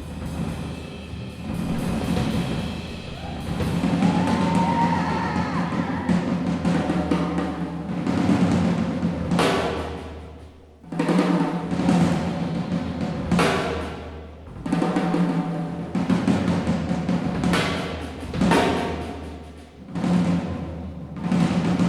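Jazz orchestra passage led by the drum kit: low tom and bass-drum rolls that swell and fade several times, punctuated by repeated cymbal crashes.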